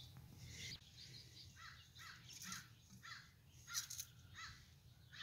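Faint bird calls: a short run of repeated calls, about two a second, over otherwise near-quiet outdoor air.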